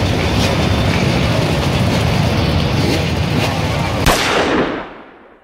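Motorbike engines running loudly with a heavy rumble and a few sharp cracks, fading out over the last second.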